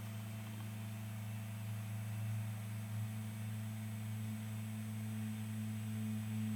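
Stepper motor of a homemade desktop CNC milling machine driving an axis at constant speed: a steady low hum with a fainter tone an octave above, cutting off near the end.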